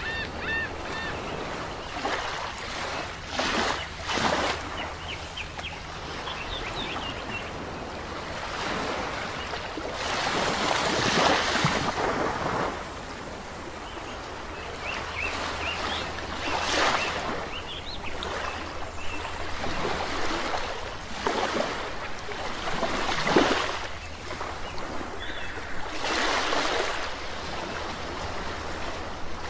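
Sea waves washing onto a beach, swelling and falling every few seconds, the longest and loudest surge about ten seconds in. Birds chirp briefly in the first several seconds.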